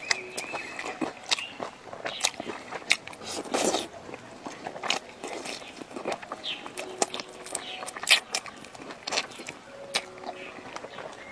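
A person eating close to the microphone: chewing and biting food, with irregular sharp clicks and crunches.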